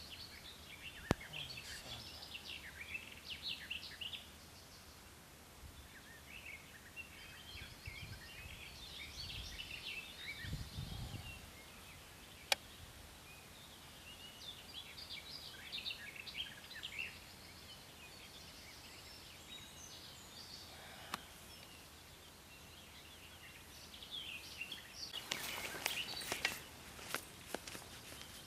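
Small birds singing in short repeated chirping phrases, with a few single sharp clicks and a brief low rumble about ten seconds in. Near the end comes a run of sharp clicks and rustling.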